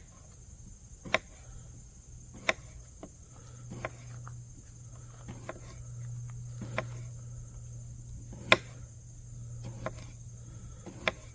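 Steady high-pitched chorus of insects, with a low steady hum underneath and sharp clicks or knocks about every second and a half.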